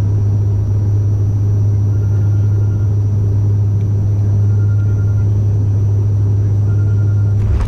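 Cabin drone of a Bombardier Dash 8 Q400's turboprop engines, with a strong, steady low propeller hum. A brief knock comes near the end.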